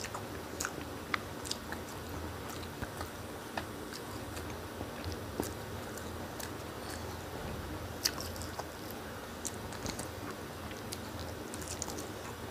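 A person chewing a mouthful of rice and fish, with scattered small sharp clicks of eating and handling food.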